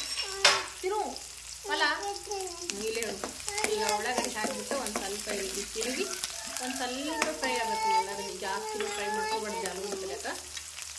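Sliced onions sizzling as they fry in oil in an aluminium kadai, with a steel spoon stirring and scraping against the pan. There is a sharp clink about half a second in.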